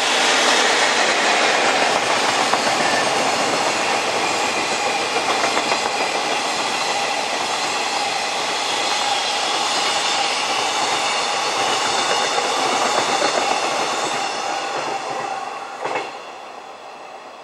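A freight train's container wagons rolling past at speed, their wheels clattering over the rail joints in a steady loud rumble. The noise eases as the last wagons go by, with one sharp clack about sixteen seconds in, then dies away.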